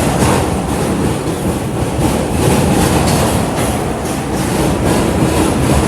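R211 subway train running on the track, heard from inside the car: a loud steady rumble and hiss with repeated clicks of the wheels over the rails.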